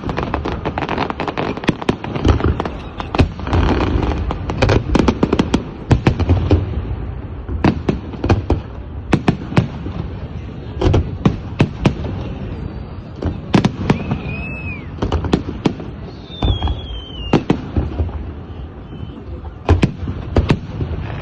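Fireworks going off: a continuous run of sharp bangs and pops at irregular intervals, one after another. Two short whistling tones rise and fall about two-thirds of the way through.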